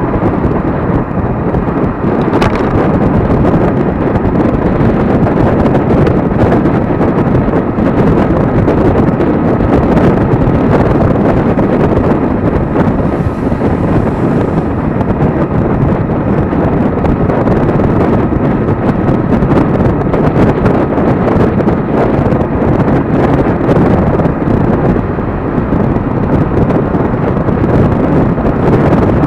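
Heavy wind buffeting on the microphone of a moving electric scooter, a steady loud rumble that covers most other road noise, with a faint thin whine running underneath at times and a single click about two seconds in.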